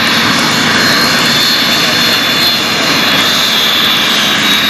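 Jet aircraft engine running steadily: a high whine over a loud, even rush of noise.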